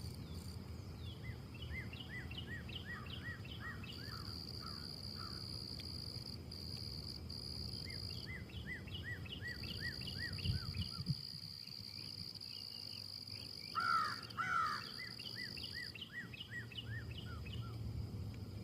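Backyard ambience: a songbird sings three bouts of quick repeated down-slurred notes, over a steady high insect drone that stops and restarts several times. Two louder, harsher bird calls come about two-thirds of the way in, with a steady low rumble of wind underneath.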